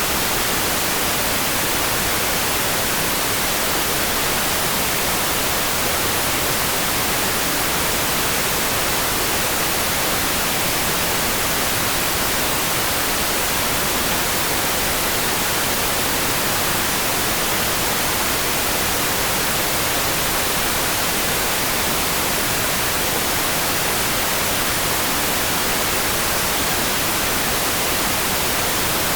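Steady, unchanging hiss of rain sound for sleep, heavier in the high range, with no separate drops or other events standing out.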